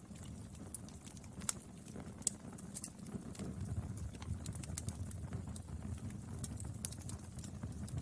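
Wood fire burning: a steady low rumble of flames under scattered sharp crackles and pops from the burning wood, a few of them louder.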